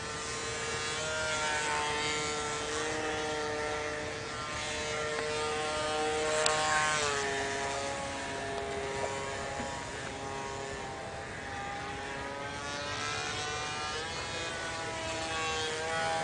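Motor and propeller of an RC model Cessna 182 in flight, a steady pitched drone that wavers up and down in pitch and drops clearly about seven seconds in as the plane flies past.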